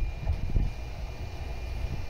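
Low rumble of an approaching Tokyu 3000 series electric train, with a couple of low thumps about half a second in.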